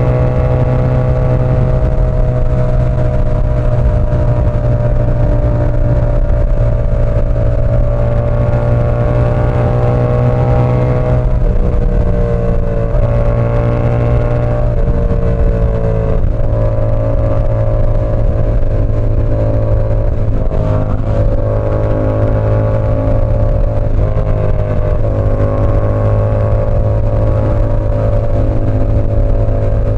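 Yamaha R7's parallel-twin engine through an SC Project CR-T exhaust, running loud at a fairly steady pitch under way, with several brief dips in pitch where the throttle eases.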